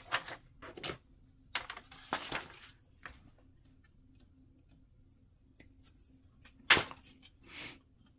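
Plastic model-kit parts and runners being handled: scattered clicks and rustling in the first few seconds, light ticks, then one sharp plastic click about seven seconds in, the loudest sound, followed by a short rustle. A faint steady hum sits underneath.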